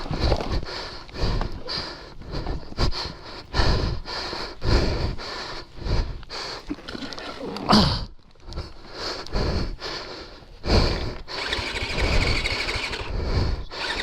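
Irregular scuffing, rustling and heavy breathing from a rider struggling with a fallen dirt bike, its engine not running.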